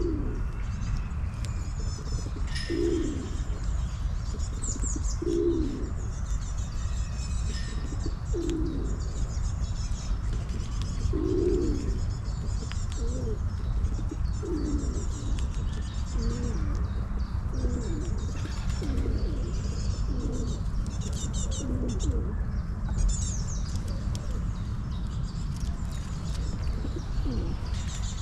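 Pigeons cooing over and over in short low phrases every second or two, with small birds chirping high above and a steady low rumble underneath.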